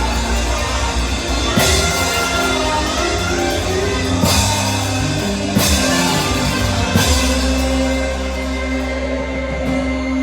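Live band music with a drum kit: four crashes of cymbal over sustained bass and chords, and the drums drop out about seven seconds in, leaving held low notes.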